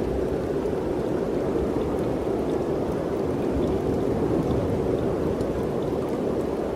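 Steady wind blowing in the mountains, a dense, even noise with a low rumble beneath it and no gusts or breaks.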